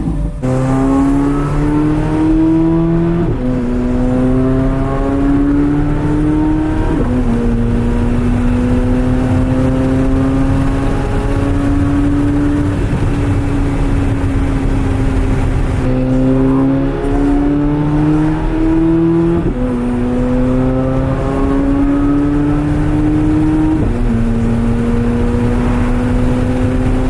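Chevrolet C8 Corvette Z06's flat-plane-crank V8 accelerating through the gears: the engine note climbs gently in pitch and drops sharply at each upshift, twice early on and twice more later, with a long stretch of steady cruising in between.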